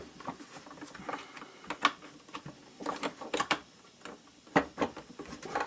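Irregular clicks and knocks of hard plastic parts being handled and fitted together while a Karcher K5 pressure washer is reassembled, in clusters with short pauses.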